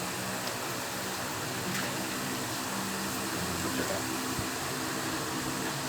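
Steady hum and hiss of a running fan-like machine, with a faint low drone and no distinct events.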